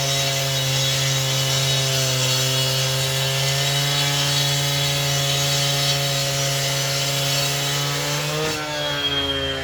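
Engine-driven power saw running steadily under load as it cuts, a constant motor hum over a hiss of cutting noise. Near the end the engine pitch rises briefly and then begins to fall.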